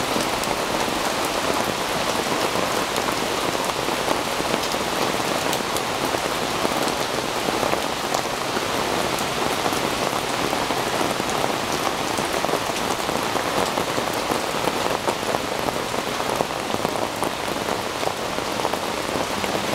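Steady rain falling on a wooden deck and the surrounding leafy trees, with many separate drops hitting close by.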